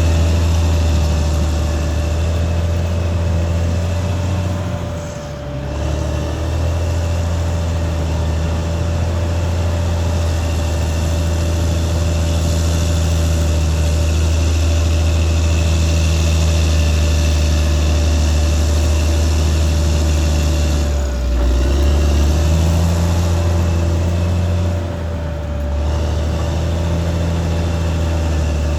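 Caterpillar D6R XL bulldozer's diesel engine running steadily at working speed with a constant whine above its low hum. The sound dips briefly about five seconds in and twice more near the end.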